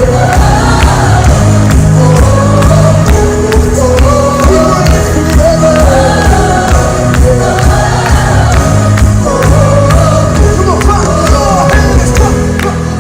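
Live worship music: a band with drums and bass playing loudly to a steady beat while a crowd sings along.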